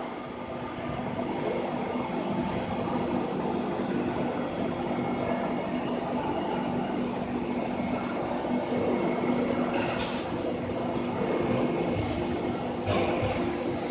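IGBT induction heating furnace running: a steady high-pitched whine over a dense, even machine hum, with a brief surge of noise about ten seconds in and again near the end.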